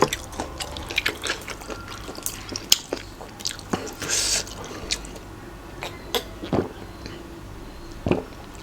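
A person chewing and biting spicy Thai pounded seafood salad close to the microphone: irregular wet clicks and crunches, with a brief hissing rush about four seconds in.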